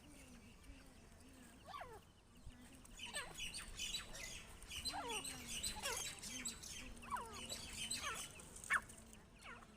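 Birds calling: a string of short squeaky calls, each falling in pitch, with busy high twittering through the middle of the stretch.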